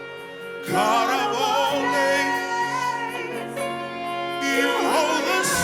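Gospel worship music: a singer holds long, wavering lines with vibrato over sustained keyboard chords, coming back in just under a second in after a brief dip.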